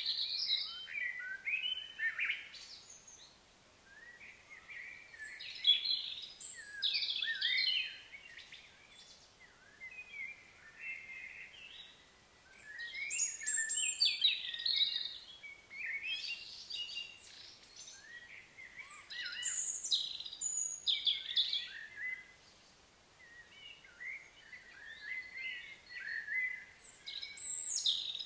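Songbirds singing: bursts of quick, varied chirping notes in phrases a few seconds long, with short lulls between phrases.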